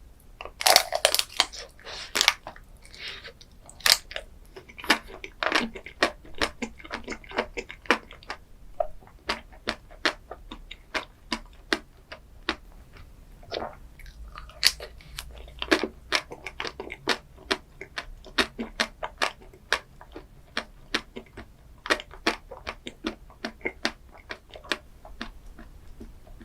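A person chewing and crunching food close to the microphone, a steady stream of sharp crisp crunches with a thicker run of them in the first couple of seconds.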